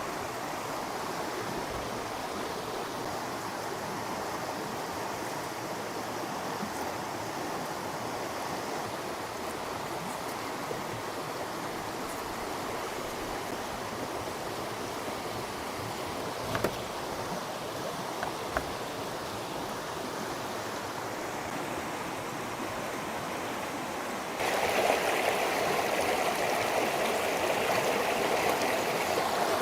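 Steady rush of running water, stepping up louder and brighter about three-quarters of the way through, with a couple of faint knocks near the middle.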